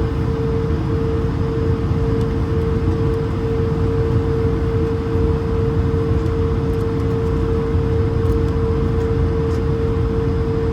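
Steady cabin noise inside an Airbus A220-300: a constant low rumble of engines and airflow with a steady mid-pitched hum over it.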